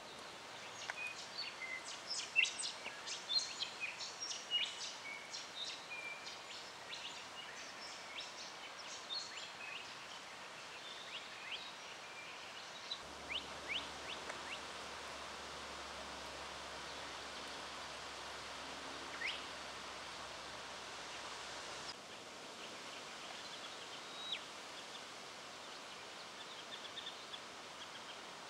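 Rufous songlark singing: a fast, jumbled run of short, high notes for several seconds near the start, then only scattered single notes, over a steady outdoor hiss.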